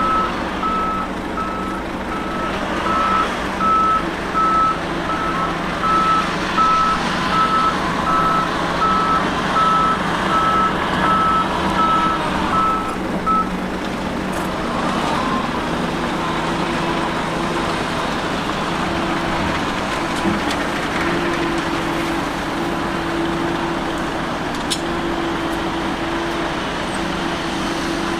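Dump truck reversing alarm beeping about once a second over its steady diesel engine. The beeping stops about halfway through, and the engine keeps running.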